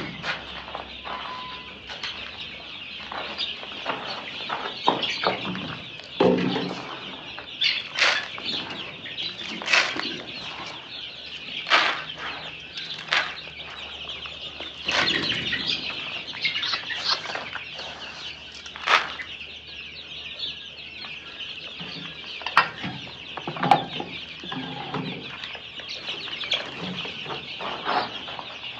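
A flock of chickens and chicks at feeding time: a steady, high-pitched chorus of peeping with clucks and many short, sharp sounds throughout.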